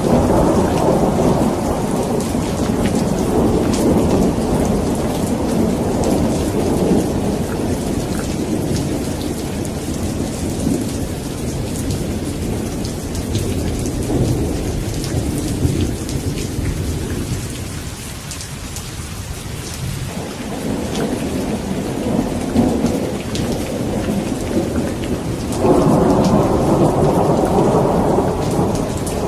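Steady rain with rolling thunder. The rumble eases off about two-thirds of the way through, then a new peal of thunder comes in suddenly near the end.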